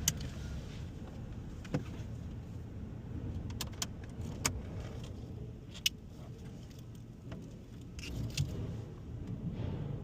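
Low steady rumble of vehicles on a ferry's car deck, broken by a scattering of sharp metallic clicks and clinks, several in the middle and a couple near the end.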